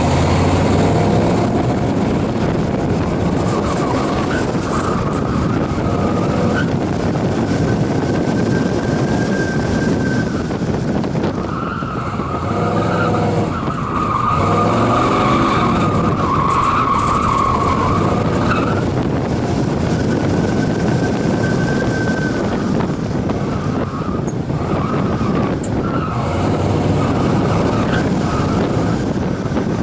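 1993 Ford SVT Lightning pickup's 5.8-litre V8 under hard acceleration on a timed run, its pitch climbing at the start, then running hard at speed with heavy wind and road noise throughout. Around the middle the engine note sweeps up and down several times.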